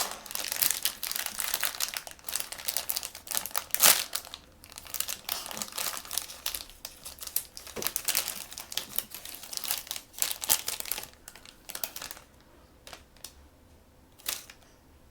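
Crinkly blind-bag packaging being handled and opened by hand: a dense run of crackles that thins to a few scattered clicks about twelve seconds in.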